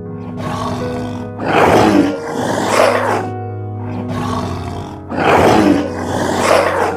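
Tiger growling: about six rough calls, the loudest in two close pairs about three and a half seconds apart, over background music with held notes.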